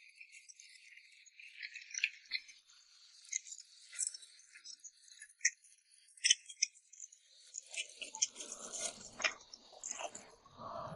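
Close-miked eating sounds of a bowl of red-oil rice noodles: a steady scatter of small wet clicks and smacks, with a fuller, lower chewing sound joining about eight seconds in.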